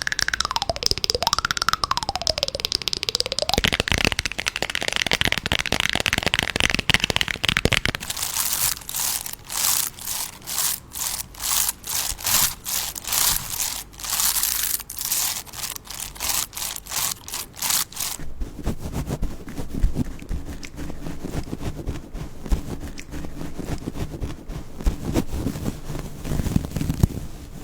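Close-miked ASMR trigger sounds. A tone glides up and down at the start, followed by crackling, then a long run of rapid clicking and rattling, and finally a lower, duller rustling.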